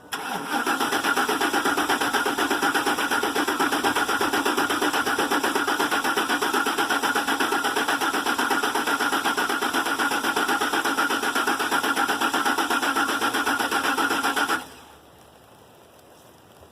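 Starter cranking a Ford 5.4-litre three-valve Triton V8 without it firing, with a fast, even pulse, for about fourteen seconds before stopping abruptly. The crank position sensor is unplugged, so the engine only turns over, priming the new oil pump to build oil pressure.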